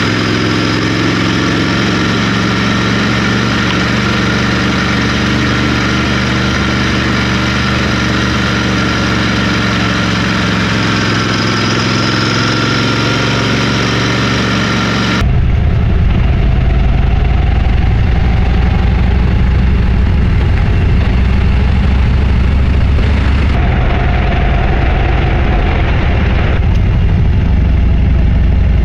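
Motorcycle engine running steadily under way, with road and wind noise. About fifteen seconds in, the sound cuts abruptly to a louder, deeper engine note.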